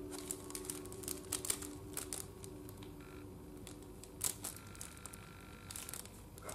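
A run of irregular sharp clicks and taps, several close together at times, over a faint steady low tone that fades out about two-thirds of the way in.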